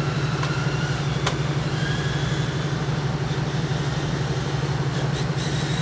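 2020 Mustang GT350R's 5.2-litre flat-plane-crank V8 droning steadily with road noise at a gentle, even cruise, with a faint click about a second in.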